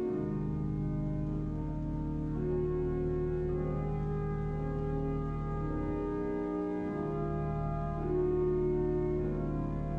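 Pipe organ playing a slow, dark piece: sustained chords moving every second or two over a held deep bass note, which drops out briefly about six seconds in.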